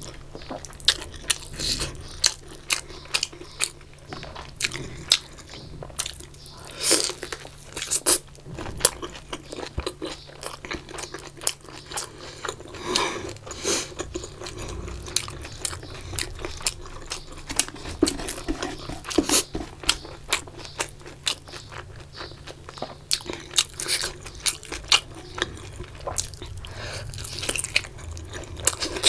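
Close-miked eating by hand: wet chewing and lip smacking, with crunchy bites into crisp fried food and many sharp mouth clicks throughout.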